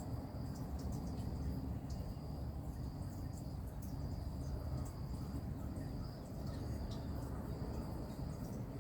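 An insect trilling on one steady high note with brief breaks, over a low uneven rumble, with a few faint short high chirps.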